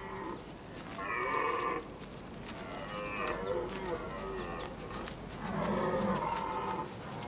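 Red deer stags roaring in the rut: about three long, low calls in a row, each lasting a second or so.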